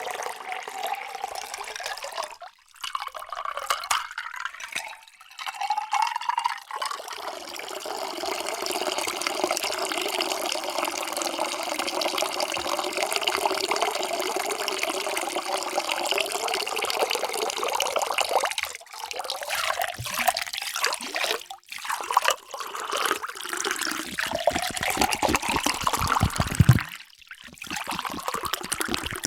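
Water being poured into a vessel, a run of separate pours with brief breaks between them. In the longer pours the ringing tone of the container rises in pitch as it fills.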